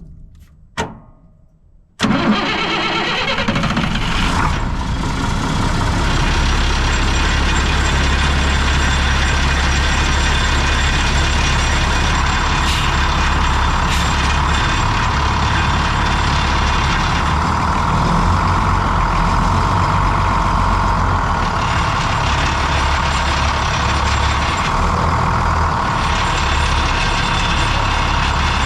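A sharp knock about a second in, then the 1996 International 4900's diesel engine fires abruptly about two seconds in and settles into a steady idle.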